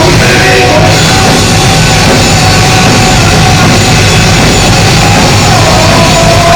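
Loud heavy metal music played live by a band, with drums and sustained held notes over a dense wall of sound.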